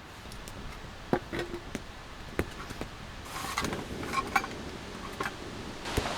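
A few sharp, separate knocks and clacks with a brief bout of rustling, over a steady background hiss.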